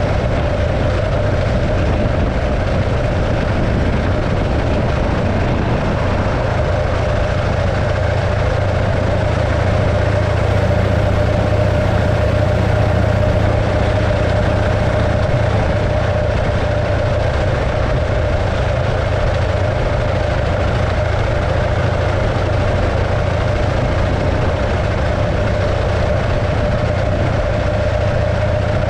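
The 1915 Arcade motorcycle's 650cc JAP engine running steadily at an even speed, with a constant tone over its low rumble.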